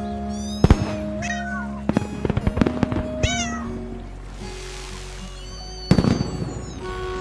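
Background music with two short, high, falling cat meows, cartoon-style, a little over a second and about three seconds in. Sharp clicks and knocks scattered through it, with a loud one about six seconds in.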